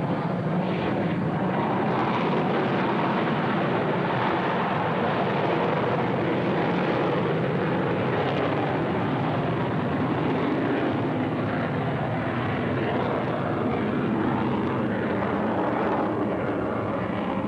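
F-16 fighter's F100 jet engine in afterburner during a display pass: a loud, steady rush of jet noise with no breaks.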